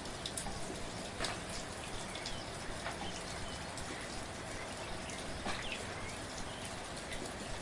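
Steady, soft rain falling, with single drops landing close by as sharp ticks, the loudest about a second in and about five and a half seconds in.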